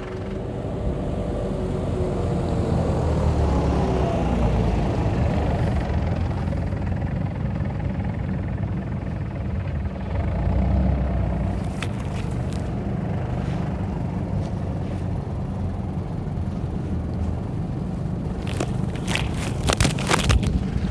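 The 1989 Toyota Blizzard's diesel engine pulls the 4x4 away and keeps it driving, the engine note rising over the first few seconds. There are a few sharp clicks about twelve seconds in and a cluster of them near the end.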